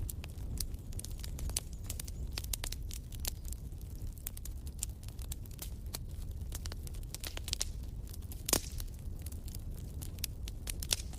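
Wood fire in a fireplace crackling, with irregular sharp snaps and pops over a steady low rumble of the flames. One louder pop comes about eight and a half seconds in.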